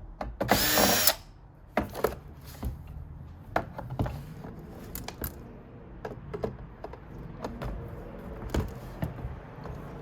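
Small power screwdriver whirring in one short burst about half a second in, backing out a screw from the iMac's stand assembly, followed by scattered light clicks and knocks of screws and metal parts being handled.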